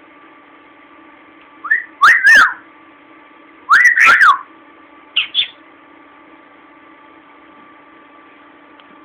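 Budgie giving two loud wolf whistles, each rising then falling, about two and four seconds in, followed by a short chirp.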